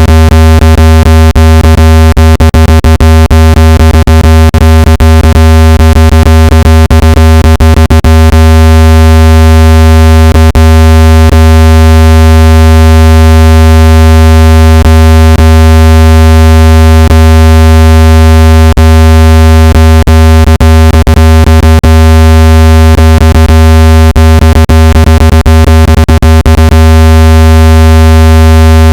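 Loud, steady, low-pitched electronic tone with a ladder of overtones, played at full volume to shake water out of a phone speaker. Sharp clicks pepper it, thick in the first several seconds and again near the end.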